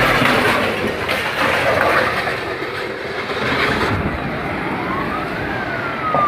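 Road vehicle noise, with a siren wail that rises for about a second about two-thirds of the way in and then slowly falls.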